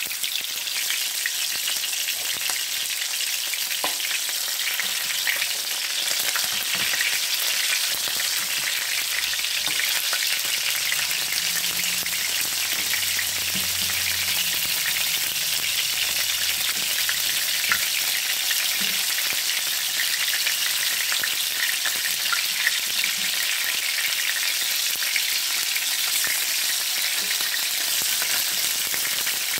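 Meatballs sizzling steadily as they brown in hot oil in a frying pan, with occasional light taps and scrapes of a utensil turning them.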